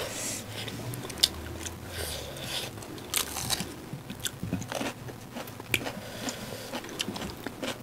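Close-up chewing of a mouthful of rice and curry, with scattered small crunches and wet clicks.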